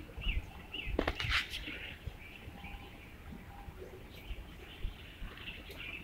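Small birds chirping in short calls, with a brief rustling flutter about a second in.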